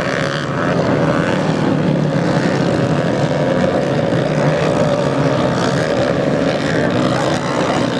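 Racing motocross motorcycle engines running as bikes race round a dirt track, a steady loud drone with no single engine standing out.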